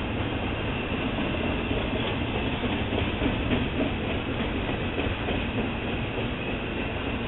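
Double-stack intermodal freight train's well cars rolling past: a steady noise of steel wheels on rail with light clickety-clack and a faint high whine.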